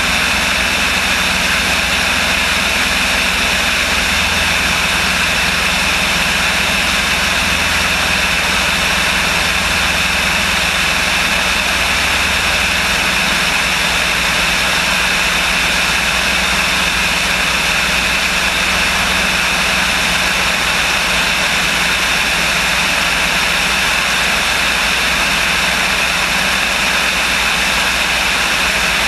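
Light aircraft's engine and propeller running in a steady, loud drone. The low hum eases slightly about halfway through.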